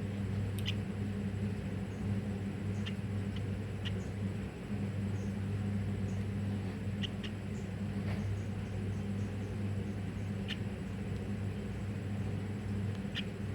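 Young bulbul chicks (trucukan) giving short, scattered high squeaky peeps, about a dozen over the stretch, over a steady low electrical hum.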